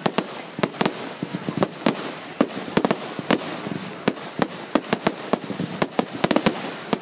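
Fireworks going off: rapid, irregular sharp bangs, several a second, over a steady crackle, with a quick cluster of bangs near the end.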